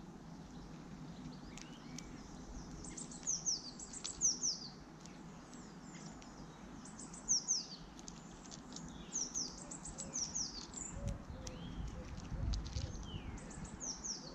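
Small birds chirping: clusters of short, high, quickly falling notes repeated throughout.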